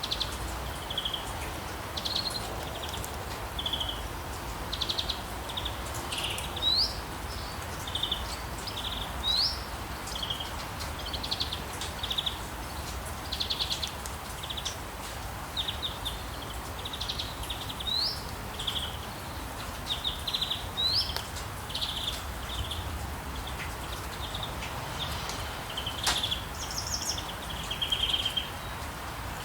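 Several songbirds chirping and trilling in a dawn chorus, many short high notes with an occasional quick rising call, over a steady hiss of light rain.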